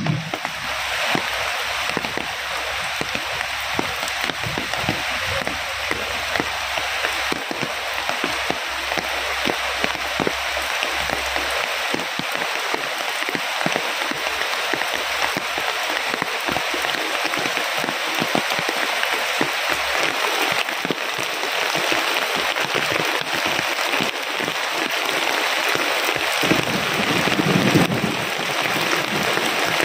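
Heavy rain falling steadily, with many separate drops striking close by, and a low rumble swelling briefly near the end.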